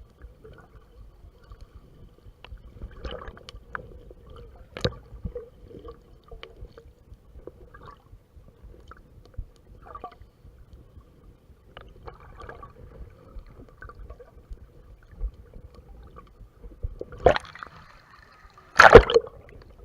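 Water sloshing and gurgling, heard muffled through a GoPro's waterproof case, with scattered knocks and splashes and a brief loud burst of noise near the end.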